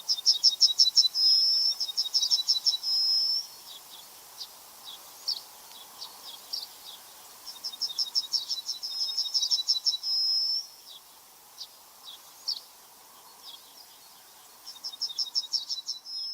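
A songbird singing a high, fast run of repeated notes that ends in a short held whistle. It sings this song three times, with single chirps in between.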